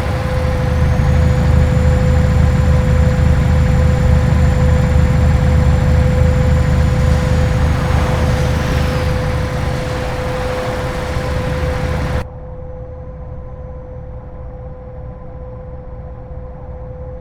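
Scania R730's V8 diesel engine running under way, a steady low drone with a constant hum. About twelve seconds in, the sound drops abruptly to a quieter, duller drone.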